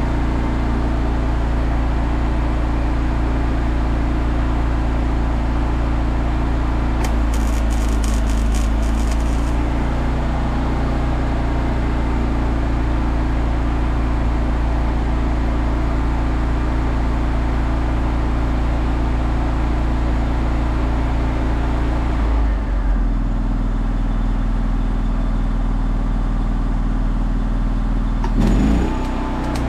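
An engine running steadily. About three-quarters of the way through it settles to a lower speed, and a brief rising-and-falling sweep comes near the end.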